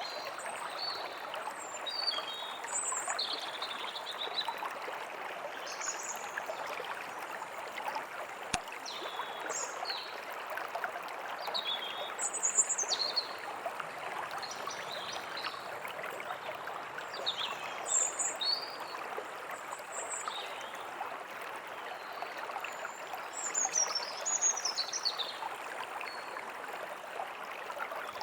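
A stream running steadily, with small birds chirping and calling on and off above it, a few calls standing out louder.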